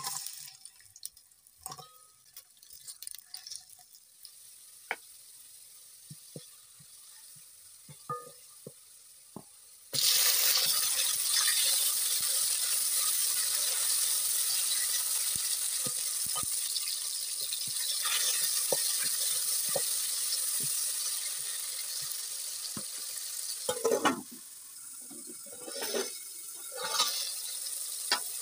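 Sliced onions dropped into oil in a stainless steel pot, with soft clicks and taps. About ten seconds in, loud steady sizzling starts suddenly as onions and tomato slices fry in the hot oil, with a few louder strokes near the end.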